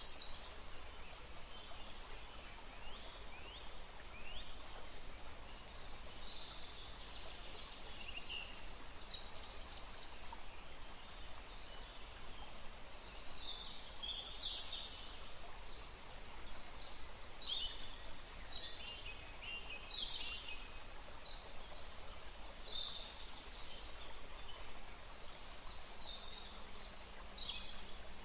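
Wild birds calling and singing, with many short high chirps and quick sliding notes repeated throughout, over a steady background hiss.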